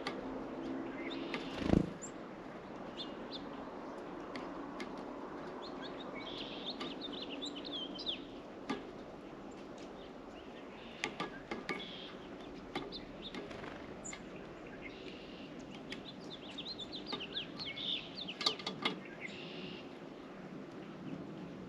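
Small songbirds chirping and twittering at a bird feeder in short clusters of high notes, with scattered sharp ticks. A single loud thump about two seconds in.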